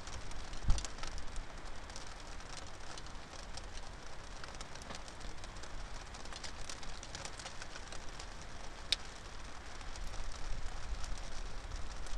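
Steady rain pattering with many small drop clicks, and blustery wind as a low rumble, strongest near the start and end. There is a single thump under a second in and a sharp tick about nine seconds in.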